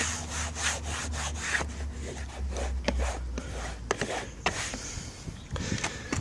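Repeated rubbing or scraping strokes, coming in quick succession, over a low hum that fades out about halfway through.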